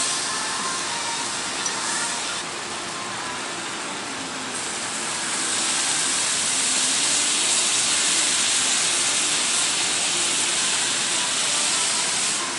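Meat sizzling as it cooks: a steady hiss that grows louder about five seconds in and stays strong.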